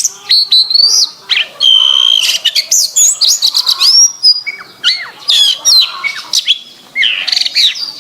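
Domestic canary singing a fast, continuous song of rapid trills and rolls, sweeping whistled notes and a briefly held whistle, with hardly a pause.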